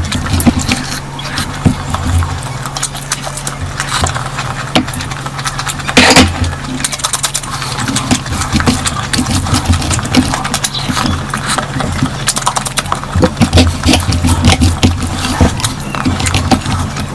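Close-miked eating sounds of curry being chewed: irregular wet mouth clicks and smacks, with a louder smack about six seconds in, over a steady low hum.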